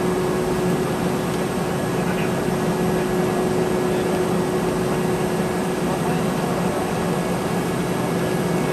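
Steady cabin noise inside a Boeing 717-200 airliner: an even hum and rush of the aircraft's engines and air conditioning, with a constant low tone and no change in level.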